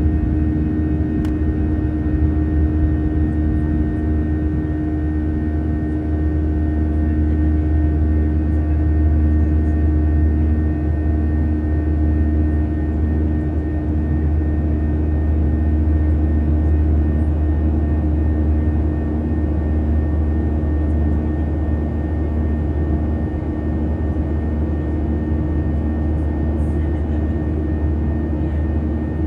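Jet airliner cabin noise during the climb shortly after takeoff: the engines and rushing air drone steadily, with a deep rumble and a steady hum. One of the hum's tones pulses about twice a second.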